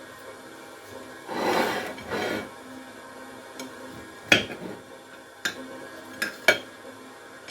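Kitchen handling sounds: two short scrapes about a second and two seconds in, then four sharp clinks and knocks of dishes or cutlery over the last three seconds.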